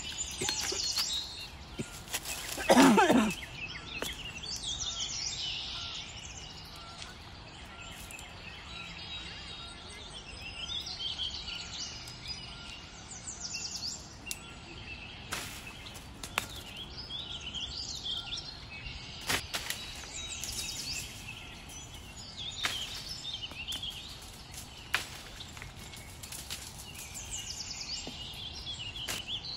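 Small birds chirping and twittering again and again. A brief loud pitched call comes about three seconds in, and there are a few sharp clicks or knocks now and then.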